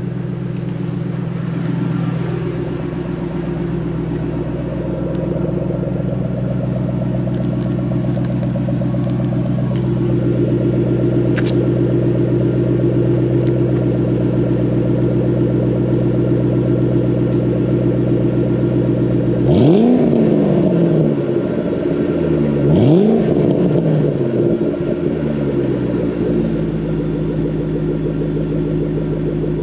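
Stock 2014 Shelby GT500's supercharged 5.8-litre V8 idling at the exhaust, blipped twice about twenty seconds in, each rev rising sharply and dropping straight back to idle.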